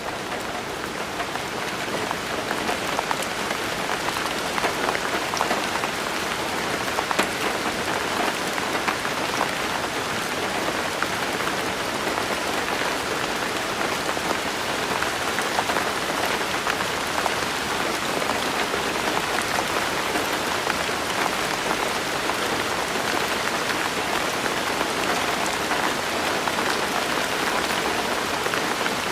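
Steady rain falling: a dense, even hiss of rain with many fine, distinct drops pattering through it, swelling in over the first second or two.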